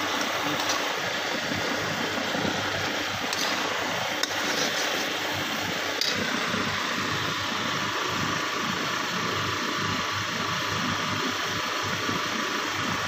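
Chicken and tomato masala frying in a karahi (wok) over high heat with a steady sizzle, and a few light knocks of a metal spatula against the pan as it is stirred.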